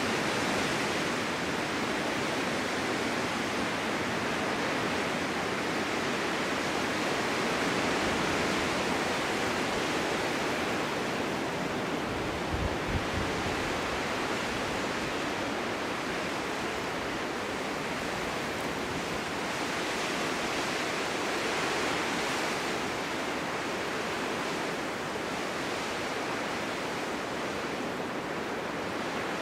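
Snowstorm wind blowing steadily through a forest meadow, a continuous rushing hiss that swells gently in gusts, with one brief low buffet of wind on the microphone a little before the middle.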